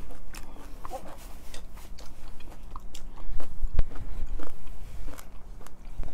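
Close-up chewing and mouth sounds of spaghetti with sausage being eaten: irregular wet smacks and small clicks.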